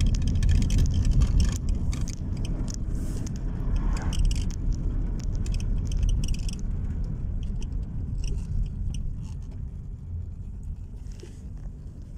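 Low engine and road rumble heard inside a small classic car's cabin while driving, with light rattles and scrapes in the first half. The rumble eases off toward the end.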